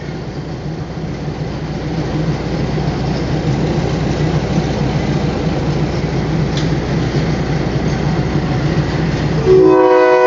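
Diesel train's engine running at the platform with a steady low hum, growing gradually louder, then a loud blast of the train horn near the end.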